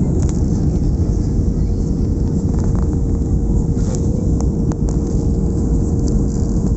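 Steady low roar of a passenger airliner's engines and airflow heard inside the cabin, with a constant hum at one pitch running through it.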